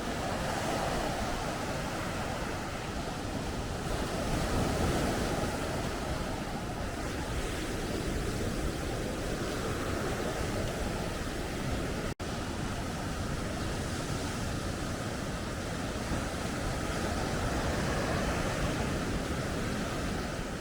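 Heavy surf breaking on a sandy beach in strong wind, a continuous wash of waves that swells and eases every few seconds, with wind rumbling on the microphone. It drops out for a split second about twelve seconds in.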